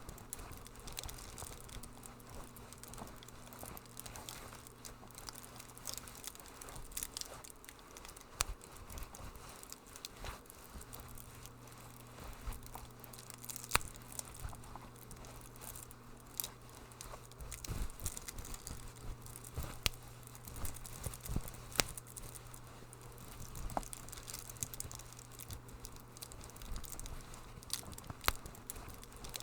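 Wood fire crackling in a fireplace: irregular sharp pops and snaps, a few louder than the rest, over a soft hiss and a faint steady low hum.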